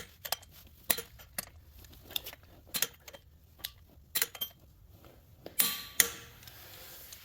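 Sharp metallic clicks and clinks at irregular intervals from a torque wrench and 19 mm 12-point socket working on the ARP flywheel bolts. The loudest two, near the end, ring briefly like metal tools being set down.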